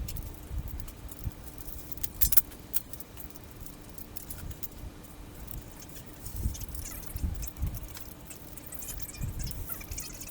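Irregular light metallic clinks and rattles, with a few dull low knocks between them, over a faint steady hum.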